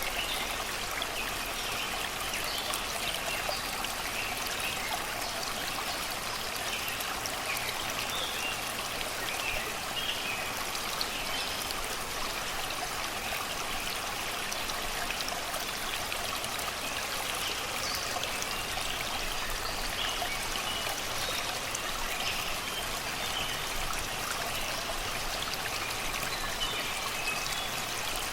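Shallow river running over rocks and stones: a steady babbling rush of water, with forest songbirds chirping here and there.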